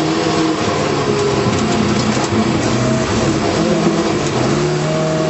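Rally car's engine heard from inside the cabin at racing speed, revving hard. Its note drops and climbs again as it goes through the gears, over steady tyre and road noise.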